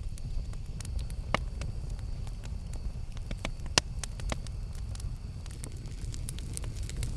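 Campfire crackling, with many scattered sharp pops and two louder snaps about a second and a half and nearly four seconds in, over a steady low rumble.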